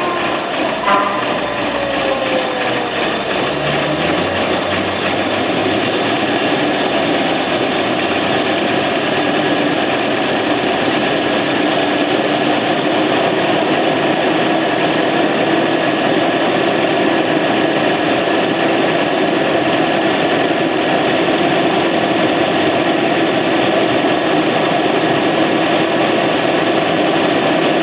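1981 Volvo 240 DL engine running with revs falling over the first few seconds, then idling steadily. It is missing intermittently but never dies.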